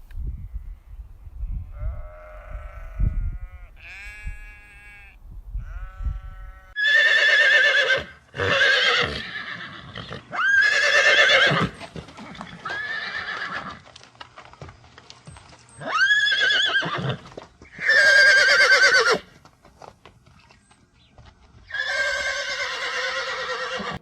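Horses whinnying: a string of loud, long, shrill neighs with a quavering tremble, each about a second, starting about seven seconds in. Before them come softer, shorter animal calls over a low rumble.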